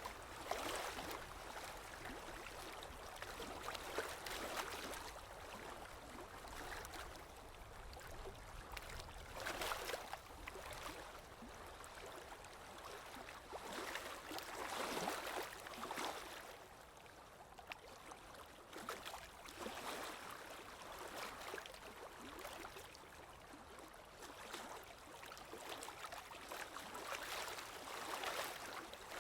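Sea waves breaking and washing on a shore, swelling and falling back every few seconds.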